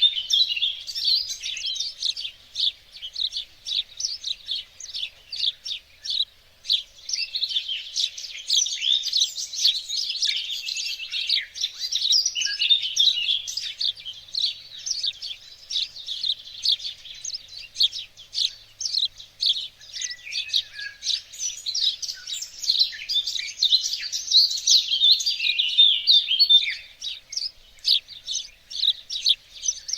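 Small songbirds chirping and singing continuously, a dense mix of quick high chirps and trills from several birds at once.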